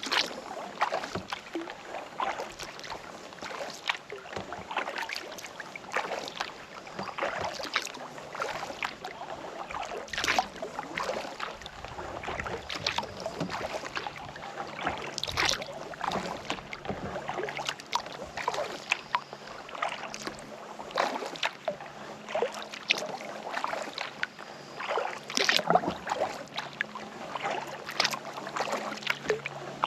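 Kayak paddle strokes: the blades dipping and splashing into lake water, with drips and trickles running off them between strokes.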